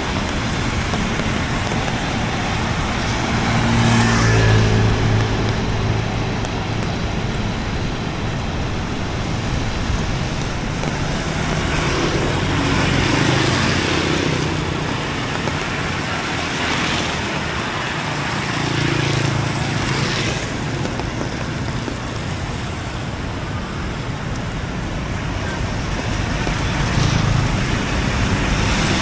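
Road traffic passing in the rain: car and motorbike engines swell and fade several times over a steady wash of wet-road and rain noise.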